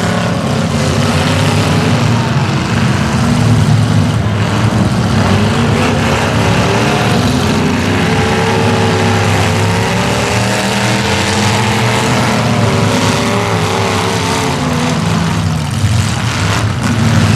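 Demolition derby cars' engines running loud and revving, several at once, their pitch rising and falling.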